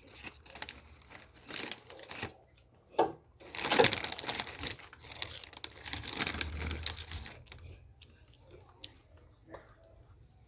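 Crinkling and rustling with scattered clicks and knocks, as of something being handled and crumpled. The rustle is loudest about four seconds in and dies down after about seven and a half seconds, leaving a few isolated clicks.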